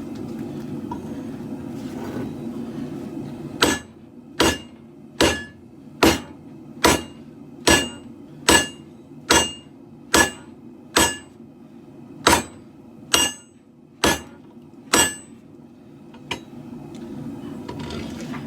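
A hand hammer strikes katana steel on an anvil: about fourteen ringing blows a little under a second apart, starting a few seconds in, then one lighter tap after a pause. A steady rush, which fits the propane forge's burners, fills the start and the end.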